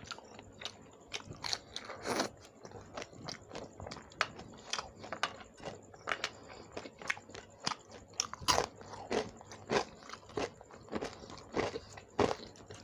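Close-miked chewing and crunching of shrimp curry with rice, with irregular wet mouth clicks and crunches several times a second and a few louder crunches among them.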